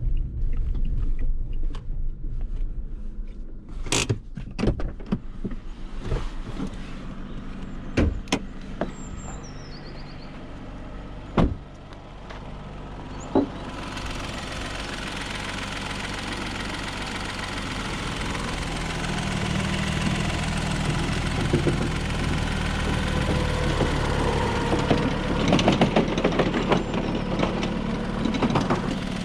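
1.0-litre three-cylinder turbo petrol engine of a Fiat Tipo running low, with several sharp clicks and knocks in the first dozen seconds. About halfway in, a steady rush of road noise swells and the engine note slowly rises and grows louder.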